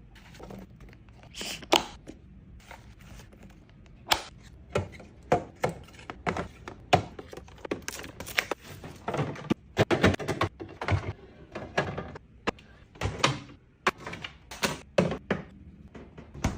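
Items being placed and arranged in a refrigerator: an irregular run of clicks, taps and thunks, sparse at first and busier from about four seconds in.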